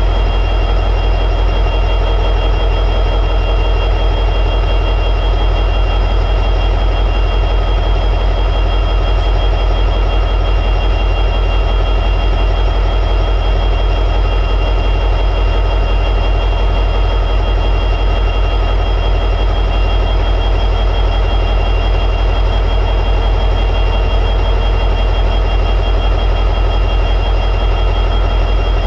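EMD 710G3B two-stroke diesel prime mover of an SD60E locomotive running at high idle: a steady, unchanging drone with a thin, steady high whine above it.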